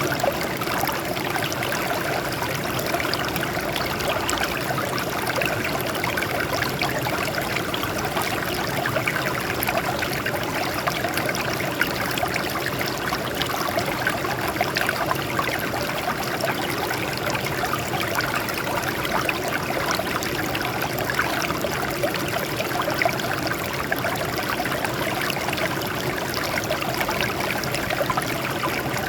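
Water flowing and trickling over rocks in a steady stream, a constant splashing babble with no change.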